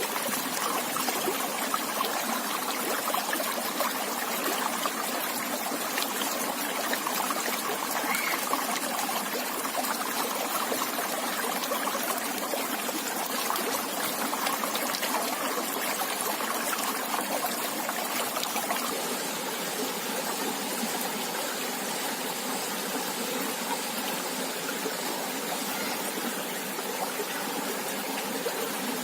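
River water flowing over rocks: a steady rushing with trickling and small splashes.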